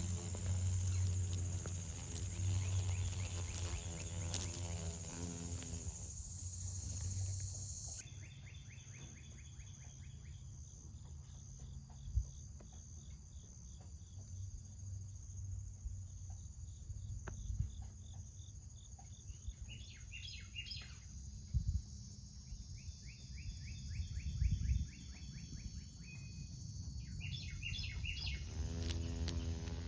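Outdoor insect and bird sounds: a steady high-pitched insect drone that cuts off about eight seconds in, followed by a rhythmic pulsing insect trill and two short bird chirps later on, over a low hum.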